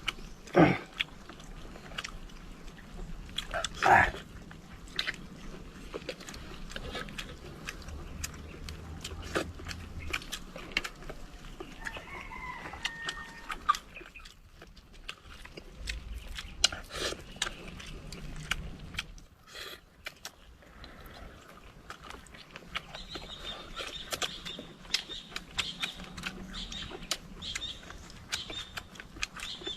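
Biting and chewing of people eating, many small sharp clicks and crunches, with chickens clucking in the background.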